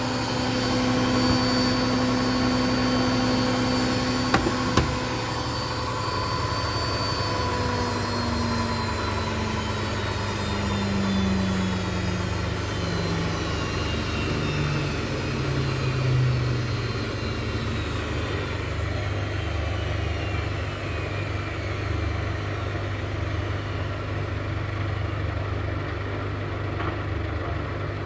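Indesit washing machine on its 1000 rpm spin: the drum and motor run with a steady whine for the first several seconds, then the whine falls slowly in pitch as the spin winds down.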